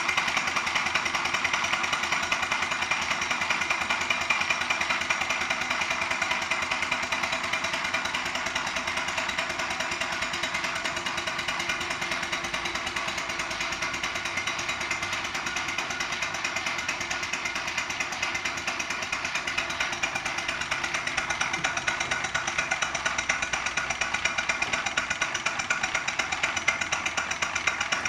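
Live steam traction engine running, its exhaust beating in a fast, even, steady rhythm of chuffs.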